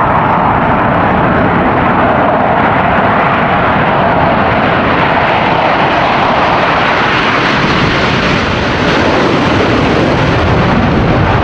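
Four U.S. Navy F/A-18 Hornet jets of a formation diamond taking off and climbing in afterburner: loud, steady jet-engine noise.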